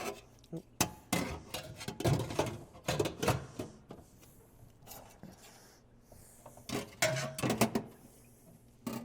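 Dishwasher parts being fitted back into place by hand: a run of clattering clicks and knocks in the first few seconds, then another short cluster about seven seconds in.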